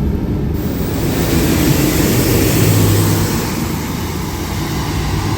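Scania K280UB bus's diesel engine running, with a loud rushing noise coming in about half a second in and staying over the engine.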